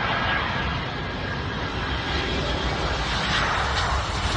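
Airliner's jet engines running as the plane passes nearby, a steady rushing noise that grows a little louder toward the end.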